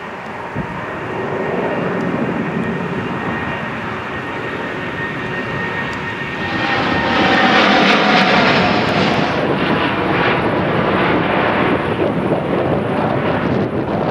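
Boeing 787-8 Dreamliner's jet engines roaring as the airliner passes close by. The sound builds, with a faint whine in it early on, and is loudest about eight seconds in before a loud rumble carries on.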